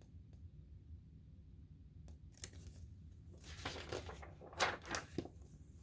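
Pages of a picture book being turned: a faint paper rustle with a few soft crinkles and clicks over a couple of seconds, starting a little after two seconds in.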